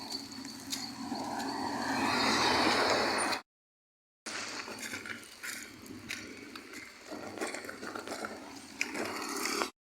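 Wheelbarrow being pushed over rough ground: a rolling, rattling noise with scrapes and small knocks, broken off by a short silent gap about three and a half seconds in.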